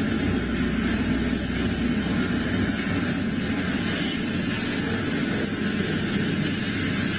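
Double-stack intermodal container cars rolling past close by: a steady rumble of steel wheels on the rails.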